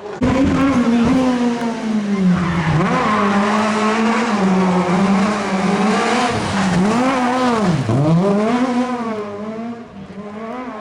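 Rally car engine running hard at high revs, the revs dipping sharply and climbing back again several times, getting somewhat quieter near the end.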